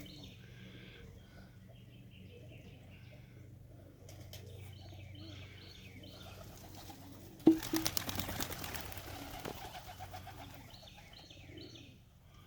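Pigeons cooing softly, with faint high chirps, then a sudden loud flurry of wingbeats about seven and a half seconds in that fades over a couple of seconds as a pigeon takes off or lands.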